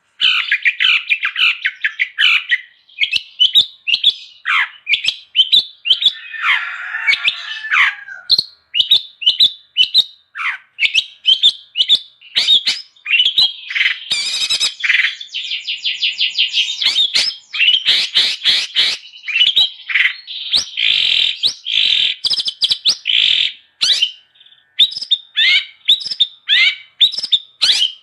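Long-tailed shrike (cendet) singing non-stop: a rapid run of short, sharp chirps and whistled notes. A harsh, scratchy passage comes about six seconds in, and fast trills follow in the second half.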